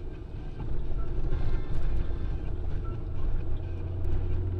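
Car engine and road rumble heard from inside a moving car's cabin, with a steady low hum.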